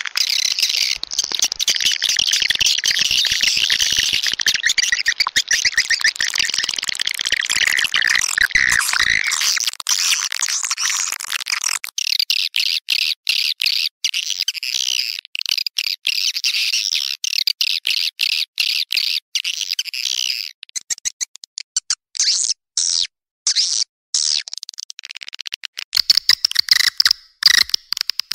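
Swiftlet calls played as a looped lure recording for swiftlet nest houses: dense, rapid, high chirping and twittering. About twelve seconds in the fuller, lower part drops away, leaving thinner high chirps, which turn choppy with short gaps for a few seconds near the end.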